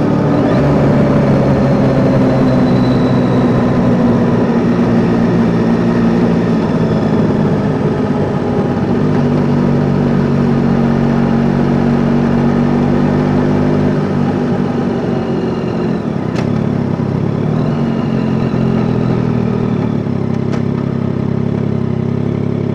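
Yamaha Tracer 9 GT's 890 cc three-cylinder engine running at low revs, the pitch dropping in the first couple of seconds as it slows, then holding a steady low note near idle. Two faint short clicks come later on.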